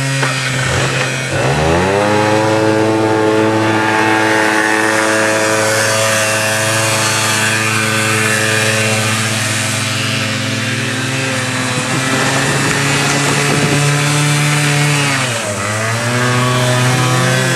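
Quad bike engine running at steady high revs, dropping off briefly about a second in and again near the end, then climbing back up.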